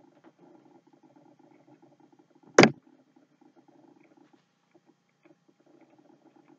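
Faint chewing and wet mouth sounds of a person eating a soft fudge-covered snack cake, with one sharp knock about two and a half seconds in.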